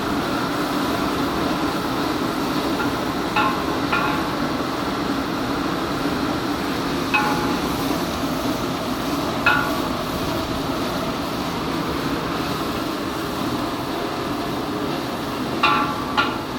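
Onions frying in hot oil in a large pot over a gas burner: a steady sizzle and burner noise, with a metal utensil clinking against the pot about six times as they are stirred.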